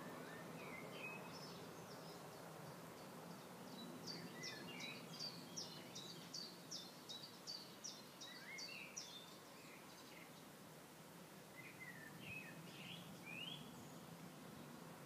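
Faint birdsong over steady background noise: a bird repeats a short, high chirp about twice a second for several seconds, with scattered lower, sliding calls before and after.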